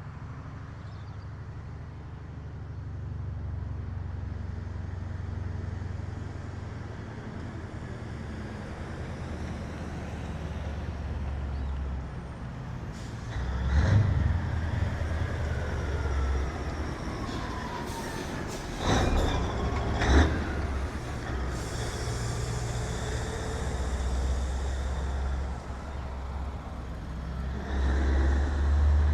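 Heavy trucks' diesel engines running and driving past, with sharp air brake hisses around the middle.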